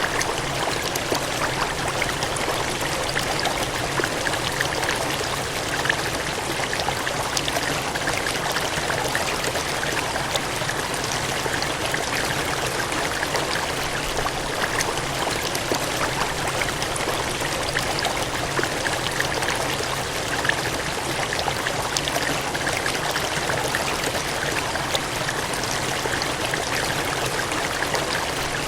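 Water gushing and cascading steadily, a continuous even rush with small splashes flickering through it.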